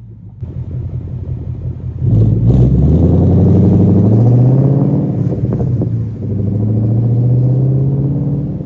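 2013 Mustang GT's 5.0 V8 through a straight-piped exhaust (resonators and mufflers deleted, factory cats and H-pipe) with a known exhaust leak. It runs low, then about two seconds in it gets much louder and climbs in pitch, eases briefly near six seconds and holds steady again.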